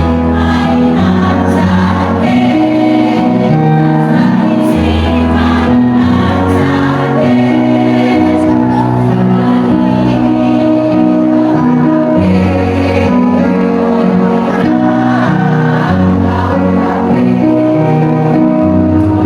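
Choir singing held chords over music with a low bass line that moves in steps.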